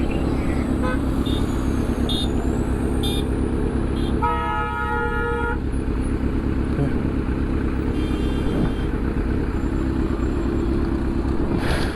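Road traffic with a steady engine rumble; a vehicle horn honks once for about a second and a half near the middle, with fainter short beeps a few seconds later.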